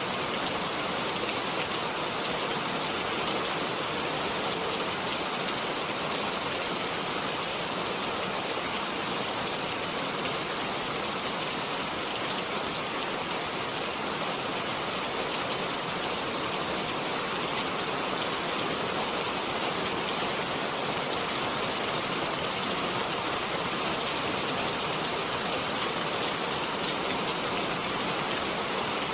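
Steady, even rain falling, with one brief click about six seconds in.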